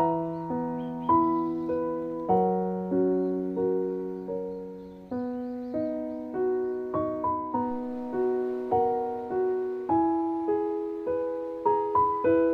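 Soft, slow solo piano music: a gentle melody of single notes, each struck and left to ring and fade, over held low notes.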